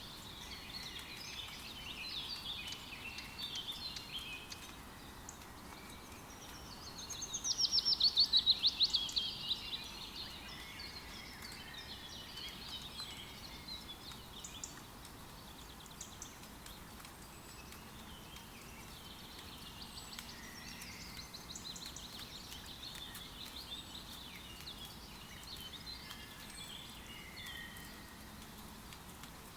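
Steady light rain hiss in a forest, with birds calling over it. About eight seconds in, one bird gives a loud, rapid trill of quick repeated notes, and a softer run of quick notes comes about two-thirds of the way through.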